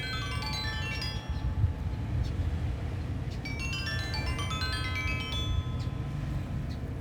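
Sanukite stone xylophone, a lithophone tuned to A=432 Hz, played in cascading pentatonic runs of clear ringing notes that sustain and overlap: one run at the start and another from about three and a half seconds in. Under it runs a steady low rumble of wind.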